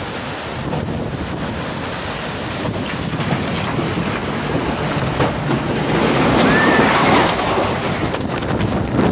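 Strong storm wind gusting on the microphone, a heavy rushing that swells louder about six seconds in.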